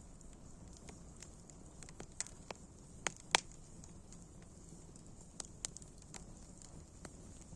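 Wood fire crackling: scattered, irregular sharp pops, the loudest about three seconds in, over a low steady rumble of burning.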